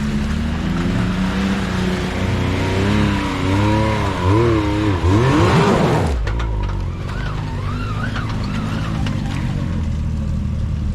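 Off-road vehicle's engine revving hard in repeated bursts as it tries to climb a rock ledge, pitch swinging up and down, over a hiss of spinning tyres. About six seconds in the revs cut off and the engine settles back to idle.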